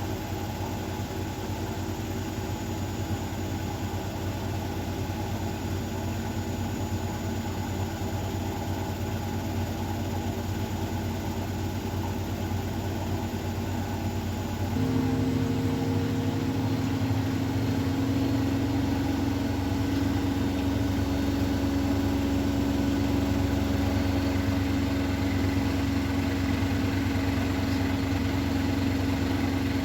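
Miele Novotronic W912 washing machine running with a steady motor hum. About halfway through, it steps up to a louder, higher tone, as in a rise in spin speed.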